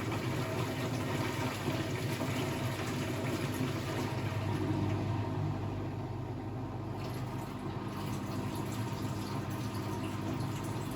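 Blomberg WAF 7442 SL washing machine running with water rushing through it over a steady low hum; the hiss of the water eases for a couple of seconds midway, then comes back.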